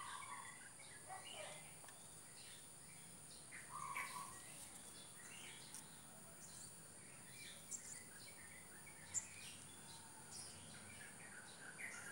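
Quiet background with faint, scattered bird chirps over a steady high-pitched hiss. Two small sharp clicks come in the second half.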